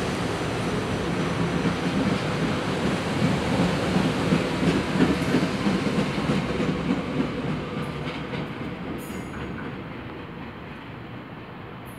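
Passenger train passing along the Northeast Corridor main line, its wheels rumbling over the rails, then dying away over the last few seconds as the last car goes by.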